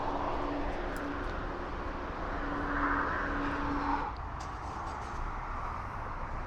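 Steady motorway traffic noise, with one vehicle swelling past about three seconds in. A steady hum stops about four seconds in.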